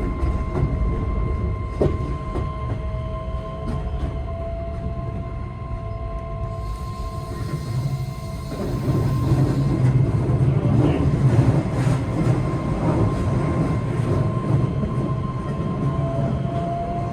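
Keihan 3000-series electric train running on the track: a steady deep wheel rumble with a steady whine over it, and a single click about two seconds in. The rumble grows louder about nine seconds in and eases off toward the end.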